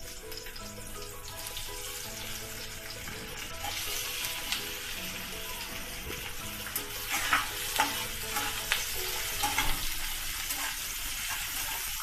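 Boiled potato cubes sizzling in hot ghee in a kadhai, the sizzle growing about a third of the way in as the potatoes go in. A spatula scrapes and stirs against the pan several times in the second half.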